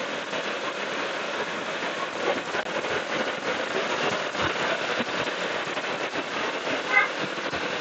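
Steady rushing noise of a motorcycle ride in traffic, wind and road noise on the rider's microphone, with a short high beep near the end.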